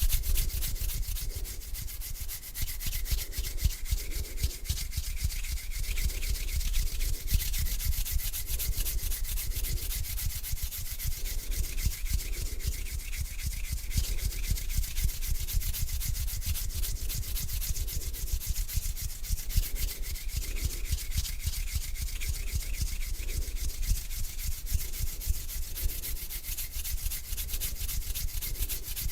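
Hands rubbing together slowly, skin on skin, in even back-and-forth strokes about one a second.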